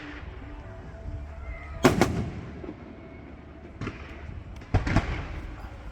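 Fireworks shells bursting: a loud bang about two seconds in, a smaller one near four seconds and two more close together near five seconds, each followed by a trailing echo.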